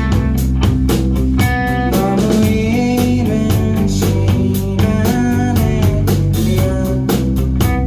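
Live indie rock band playing a song: electric guitar over a drum kit keeping a steady beat, with bass underneath.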